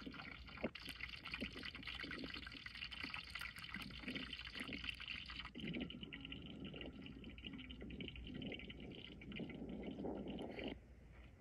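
Butter sizzling and crackling in a large cast-iron pot over a wood fire as food fries. The hiss changes abruptly about halfway through and drops away near the end.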